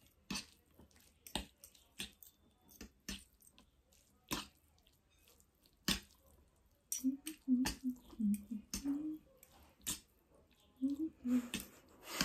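Close-up eating sounds of spicy ramen noodles: scattered sharp, wet mouth clicks and smacks of chewing. A few short, low voice sounds come past the middle and again near the end.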